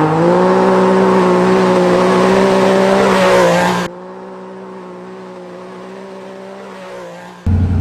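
Off-road rally vehicle's engine held at high revs under hard acceleration, with a hiss of tyre and gravel noise over it. About four seconds in the sound drops suddenly to a quieter stretch of the same engine note, and just before the end it jumps back to a loud, lower-pitched engine.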